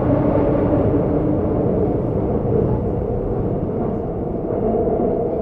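Seoul subway train running: a steady rumble of wheels on the track with the hum of the traction motors, the hum's pitch shifting near the end.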